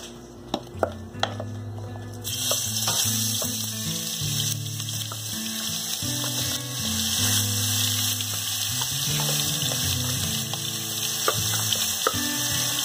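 Ground chili paste dropped into hot oil in a wok, sizzling. The sizzle starts suddenly about two seconds in and keeps going as more paste is scraped in, with a few clicks of the spoon against the food processor bowl just before it.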